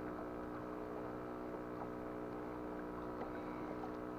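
A steady hum made of several even tones, unchanging in level throughout.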